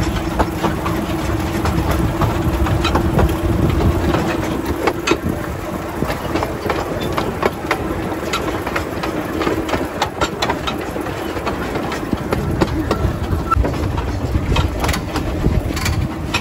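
Train running along the track: a steady rumble with a held hum, and scattered clicks and rattles from the wheels and carriage.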